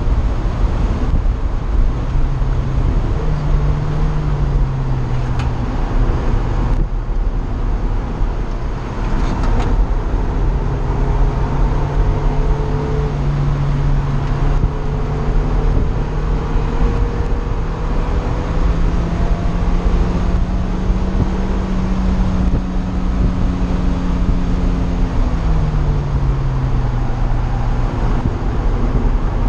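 In-car sound of a sports car lapping a race track under hard acceleration, with heavy wind and road noise through the open cabin. The engine note climbs slowly through a long pull, drops briefly about 4 s in and again with a lift about 7 s in, then rises steadily until it falls sharply on a gear change or braking near the end.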